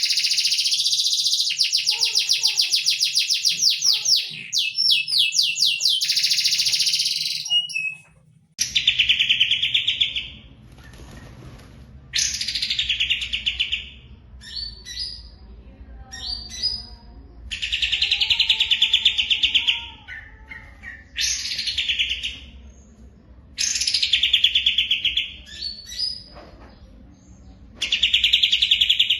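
Caged songbirds singing, as on a bird-song tutor recording: for the first eight seconds a continuous rapid, high trilling song, then after a short break a song of short trilled phrases, each a second or two long, repeated every few seconds.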